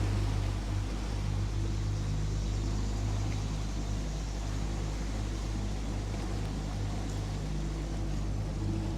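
Boat motor running steadily at an even, unchanging speed, a low hum.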